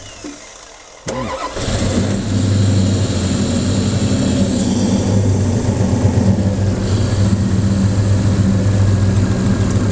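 409-cubic-inch Chevrolet V8, newly fitted with a Holley Terminator EFI throttle body, starting on its first try: it catches about a second in and settles straight into a steady, smooth idle.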